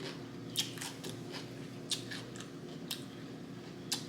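A person chewing crunchy fried food close to the microphone, with four sharp crunches about a second apart and softer crackling between them. A steady low hum runs underneath.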